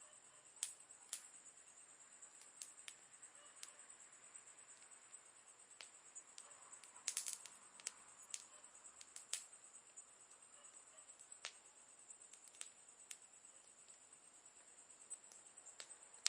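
Campfire crackling: sparse sharp pops and snaps from the burning wood, with a quick run of them about seven seconds in, over a steady faint high hiss.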